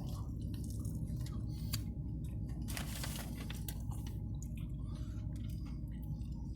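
Chewing a bite of a Popeyes fried chicken sandwich close to the microphone: wet mouth sounds and small clicks, with a brief louder rustle about three seconds in, over a steady low hum.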